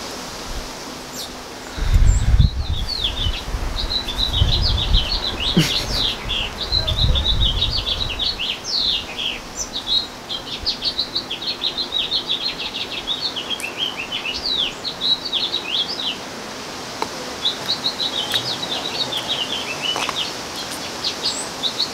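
Small birds chirping rapidly and continuously in high, quick notes, with bursts of low rumble between about two and eight seconds in.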